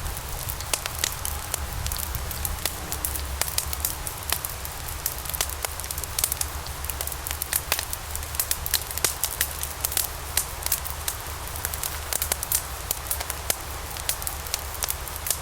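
Wood fire of burning logs crackling: many sharp, irregular pops and snaps over a steady low rumble and hiss of the flames.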